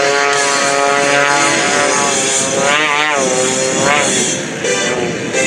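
Edge 540 aerobatic plane's six-cylinder Lycoming engine and propeller running at display power. The pitch is steady at first, then wavers up and down a few times in the second half as the plane manoeuvres and the power is changed.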